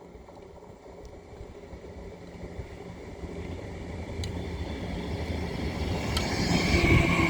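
A train approaching, its low rumble growing steadily louder, with a high steady tone joining it near the end as it draws close.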